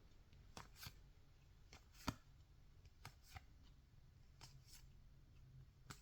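Faint clicks and slides of 2024 Topps Series 2 baseball cards being flipped one by one through a pack: about eight light snaps, the sharpest about two seconds in.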